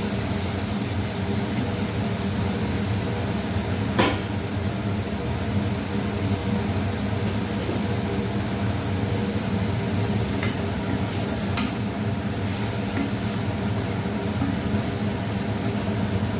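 Onions sautéing in hot oil in a kadai, a steady frying sizzle over a low hum. A spatula strikes the pan sharply about 4 s in and again a couple of times past the middle.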